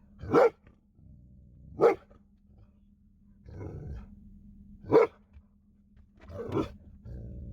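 Great Pyrenees–Labrador mix dog barking in single barks, four times, a second or more apart: alarm barking at deer outside the truck window.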